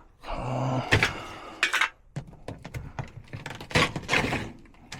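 Handling noise at a furnace: a string of separate knocks, clicks and light metallic clatter.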